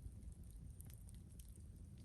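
Wood campfire crackling faintly: a few scattered small pops and snaps over a low rumble.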